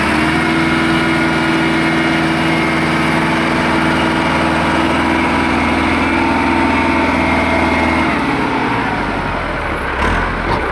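Massey Ferguson 385 tractor's diesel engine running at steady revs, then easing off about eight seconds in.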